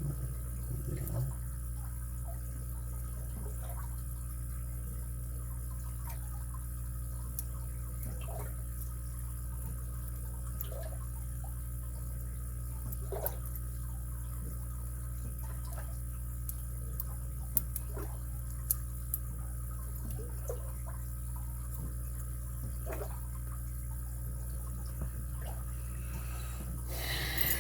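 Faint, scattered clicks and light scraping of a lock pick and tension wrench working the pins of a padlock, with a few sharper clicks around the middle, over a steady low hum.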